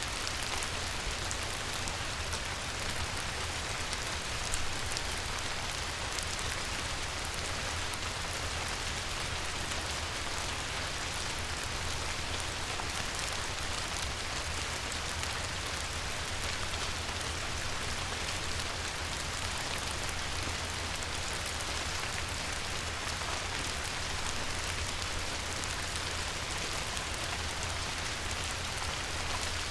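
Steady light rain falling on a river, an even hiss with many fine drop ticks and a low rumble underneath.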